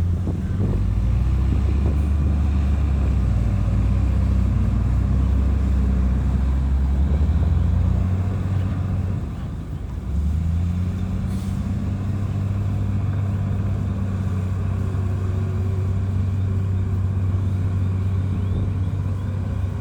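Heavy diesel engine of earthmoving machinery running steadily. Its drone changes about eight seconds in, dips briefly near ten seconds, then picks up and runs on.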